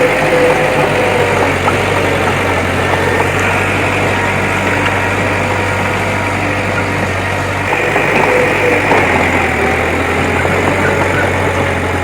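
Diesel engine of a heavy earthmoving machine running steadily, its note shifting slightly about eight seconds in.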